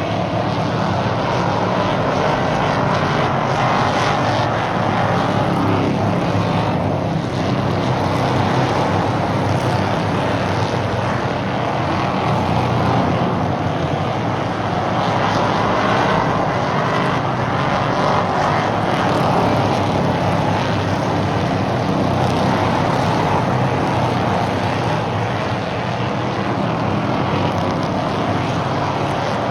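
Stock cars racing around an oval track, their engines running together in a steady din that swells and eases every few seconds as the field circulates.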